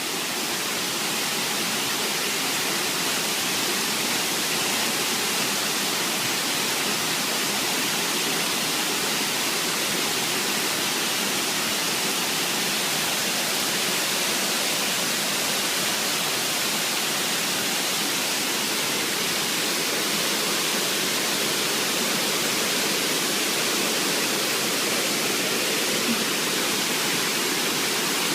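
Waterfall, the steady, even rush of falling water close by.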